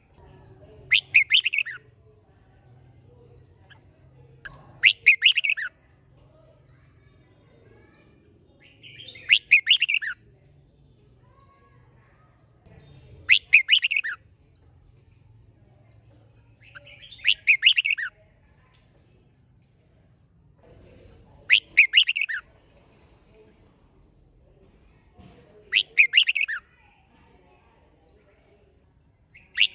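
Red-whiskered bulbul singing its loud, brisk song phrase about every four seconds, each phrase lasting about a second, with faint short high chirps between the phrases.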